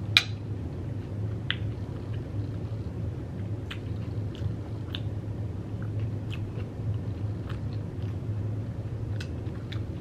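Close-up chewing of a mouthful of hot Cheeto taco bowl, with scattered small crunches and wet mouth clicks, a sharp click just at the start, over a steady low hum.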